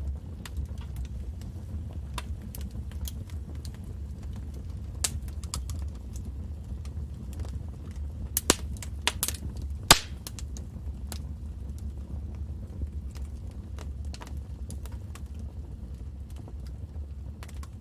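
Wood fire in a fireplace crackling: scattered sharp pops and snaps over a steady low rumble, with the loudest pops a little past the middle.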